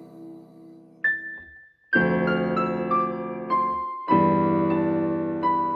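Keyboard music in a piano sound, playing sustained chords. A held chord fades at first, a single high note sounds about a second in, and new chords are struck about two and four seconds in.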